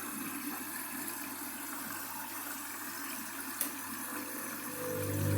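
Candy washing machine filling, water running steadily into the drum with a hiss. One click about three and a half seconds in, and near the end a low steady hum starts up and grows louder.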